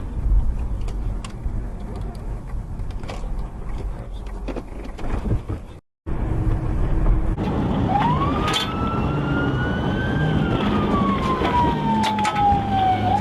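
Vehicle noise with scattered clicks. After a sudden cut, an emergency-vehicle siren starts in a slow wail: it rises quickly, then falls slowly over about three seconds before winding up again near the end.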